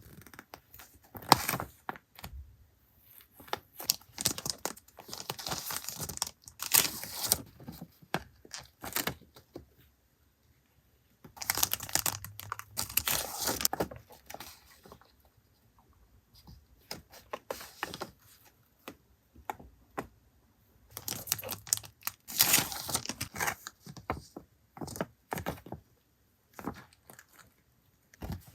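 Paper and plastic packaging being handled: bursts of rustling, crinkling and tearing with small taps and clicks, broken by short pauses.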